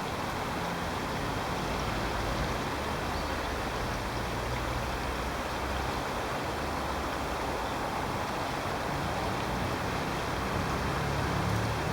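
Steady outdoor background ambience: a low rumble under an even hiss, the rumble swelling slightly near the end.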